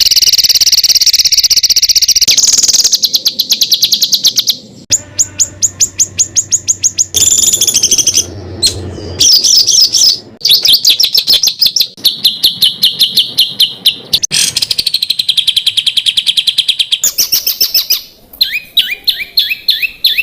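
A string of different songbirds' songs cut together, with fast trills and rapid-fire runs of high repeated notes. The song switches abruptly to a new singer every few seconds. This is 'tembakan' (rapid-fire) song material of the kind used to tutor competition songbirds.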